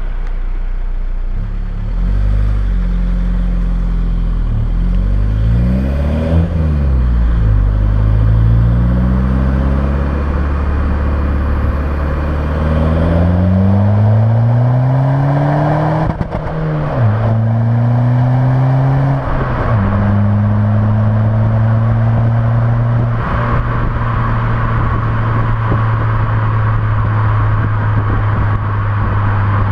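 Four-cylinder 1.9 TDI diesel engine of a tuned VW Golf Mk4, heard through a 60 mm stainless exhaust with a Milltek silencer. The revs rise and fall, then climb in long pulls with two sudden drops in pitch about halfway, typical of gear changes under acceleration, and in the last third they hold steady.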